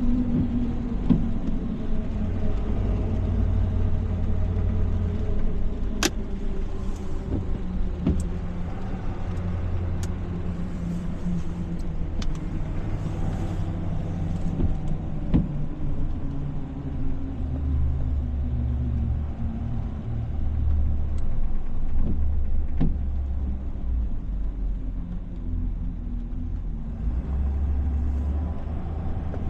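Tow truck driving, heard from inside the cab: a steady low engine and road rumble. Near the start the engine tone falls as the truck slows, and a few sharp clicks come at scattered moments.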